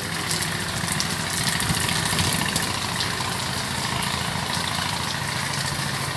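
Heavy rain pouring down steadily in a stormy downpour, with a low steady hum beneath it.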